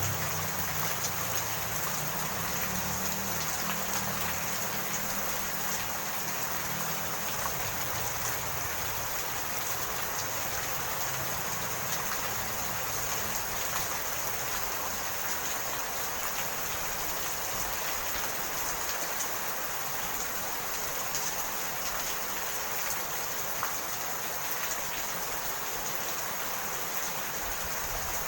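Steady rain falling, an even hiss with scattered small drop ticks. A low rumble underneath fades away over the first few seconds.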